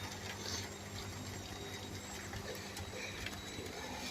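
Light rain falling: a faint, steady hiss with a few soft drop ticks.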